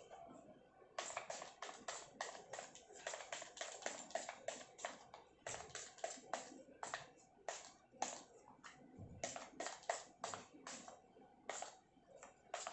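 Hand-pump sanitizer spray bottle sprayed over and over: short hissing squirts, several a second, with brief pauses between runs.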